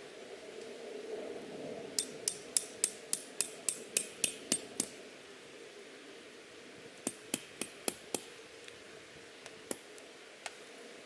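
Hammering: a quick run of about a dozen sharp, ringing strikes, then after a pause five more, then a couple of single knocks.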